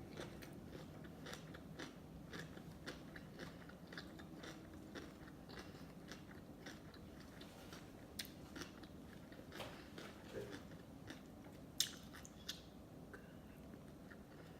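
Close-miked chewing of sushi: a steady run of small wet mouth clicks and soft crunches, several a second, with one sharper click about twelve seconds in.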